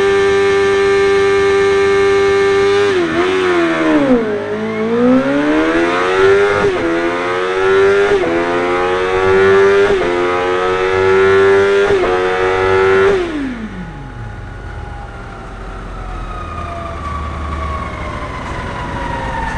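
Suzuki GSX-R1000 K1's inline-four engine at full throttle on a dynamometer: held at steady high revs, then the revs sag deeply and climb back, and the bike pulls up through four quick upshifts, each a short dip in pitch. About 13 seconds in the throttle shuts and the revs fall away, leaving a falling whine as the run winds down.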